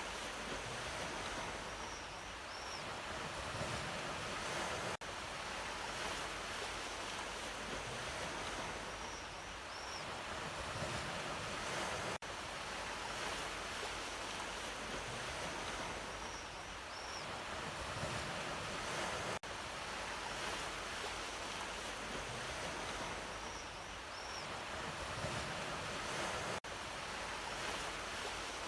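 Sea waves washing onto the shore in a steady, even hiss that swells and eases. A short recording loops, so the sound drops out briefly about every seven seconds and the same pattern comes back.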